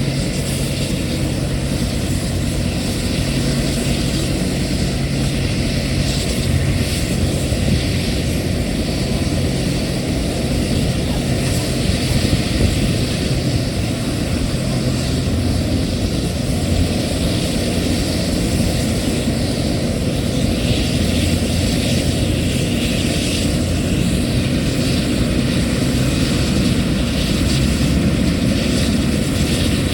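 Military helicopter's turbine engine and rotor running, loud and steady.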